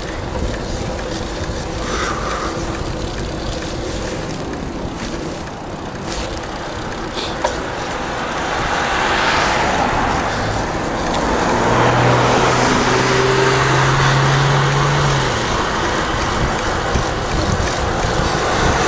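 Road traffic heard from a moving bicycle, over steady wind noise on the microphone. About halfway through, a motor vehicle's noise swells up with a low engine hum, loudest a few seconds later, then eases off.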